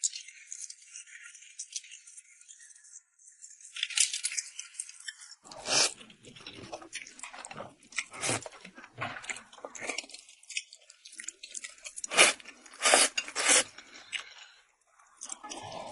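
Close-up eating sounds of a person chewing and biting rice noodles tossed in chili oil, as irregular wet smacks and bites. The loudest come about 6 s in and again around 12 to 13 s. The first few seconds hold only a faint high rustle.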